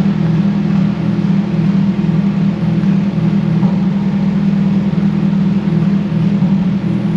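Turbocharged Honda B18 four-cylinder engine on a dyno, running steadily at a constant speed with no revving.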